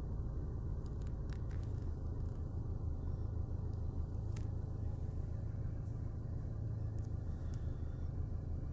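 Hyundai Sonata's 2.0-litre Sirius four-cylinder engine idling warm, a steady low hum, with a few light clicks scattered through it.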